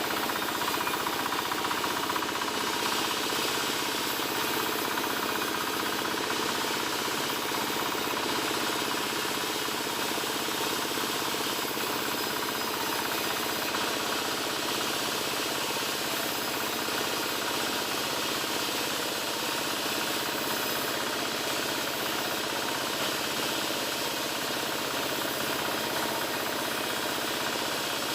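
Large wood-sawing machine running steadily while it cuts albasia timber: a continuous, even machine noise with a steady hum of tones and no breaks.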